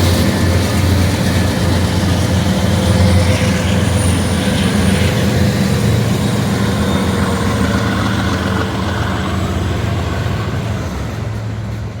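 Norfolk Southern intermodal freight train rolling past: the steady rumble and rush of its cars' wheels on the rail, with a faint high wheel squeal about four seconds in.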